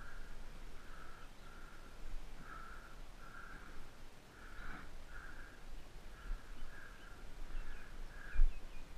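A bird calling over and over with short, crow-like calls, about one or two a second, over a low rumble. There is a thump near the end.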